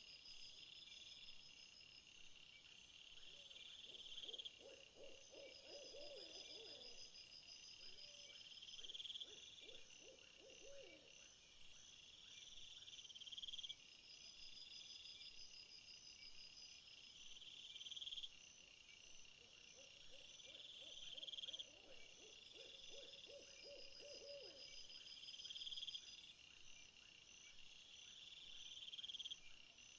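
Faint night chorus of insects, high trills swelling and cutting off about every four seconds. Over it, a low trilled owl call comes in twice, each lasting a few seconds.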